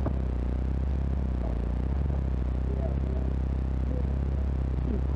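Off-road SUV's engine running steadily while driving along a dirt trail, heard from inside the cabin as a steady low drone.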